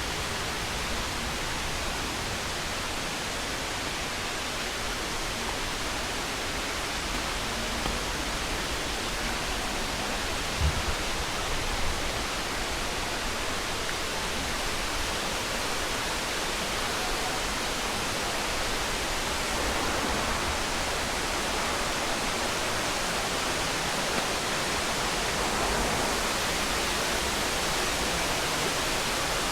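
Waterfall rushing: a steady, even wash of falling water, with a couple of brief low bumps near the middle.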